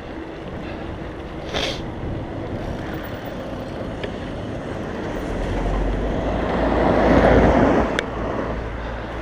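Traffic noise heard from a moving bicycle, with a motor vehicle passing close by: a rush that builds from about five seconds in, peaks around seven seconds and falls away quickly.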